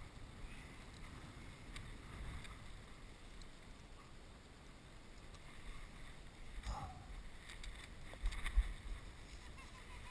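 Wind buffeting the microphone in a steady low rumble, with a few faint rustles or knocks about seven and eight seconds in.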